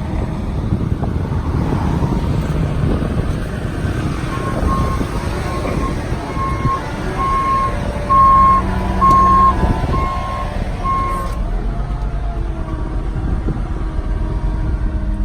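A GMC C7500 bucket truck's engine running with a steady rumble. From about four seconds in, an electronic warning beeper sounds at one steady pitch, roughly one to two beeps a second for about seven seconds, two of them much louder, then stops.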